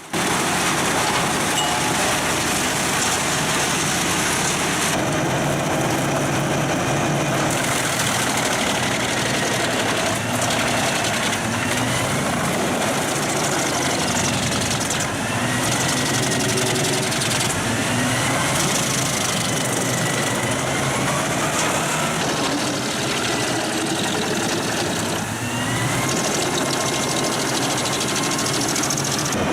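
Heavy tracked wood chipper running hard as it chips logs: a loud, steady din of the engine, the cutting drum and chips being thrown out, with the engine pitch rising and falling several times under the changing load.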